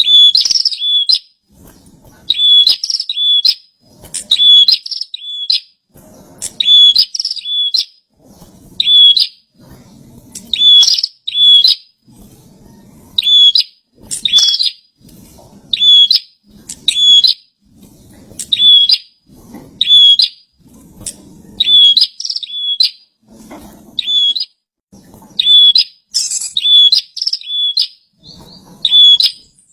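Prenjak (a prinia) singing steadily: a short phrase of a few sharp, high chirps, repeated about every two seconds.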